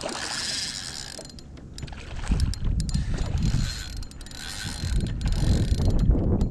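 Spinning fishing reel being wound during a fight with a hooked redfish, with a strong, uneven low rumble of wind on the microphone from about two seconds in.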